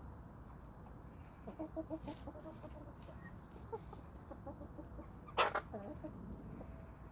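Domestic chickens clucking in runs of short low notes, with one loud sudden sound about five and a half seconds in, followed by a few more clucks.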